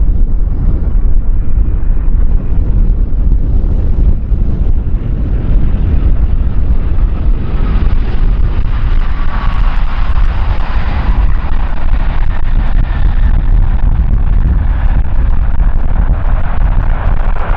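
Strong wind buffeting the microphone with a heavy low rumble. From about eight seconds in, the whine of a jet airliner's engines builds and grows louder.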